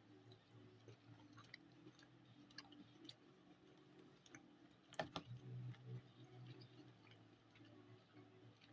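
Quiet chewing of a bite of microwaved ribeye steak, with small mouth clicks and one sharper click about five seconds in, over a faint low hum.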